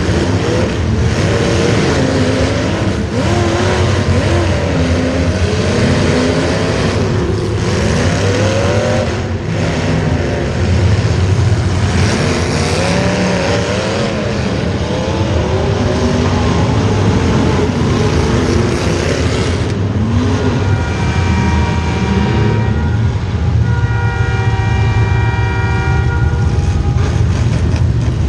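Several racing engines running hard, their pitches rising and falling as they rev, over a steady low rumble. About two-thirds of the way in a steady, several-toned whine or hum comes in over the engines.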